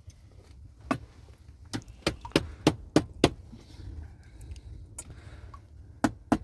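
A run of sharp knocks or clacks at an uneven pace, bunched in the first half and returning twice near the end, over a low steady rumble.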